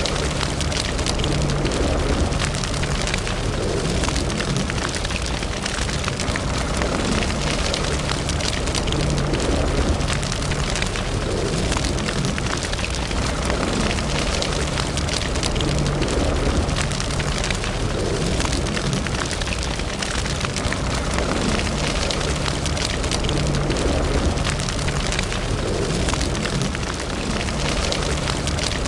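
Fire burning in a fireplace: a steady low rumble of flames with dense, constant crackling.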